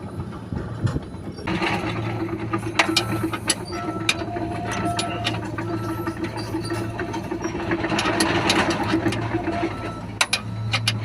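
An engine runs steadily from about a second and a half in, with a short high electronic beep repeating over it and scattered sharp clicks.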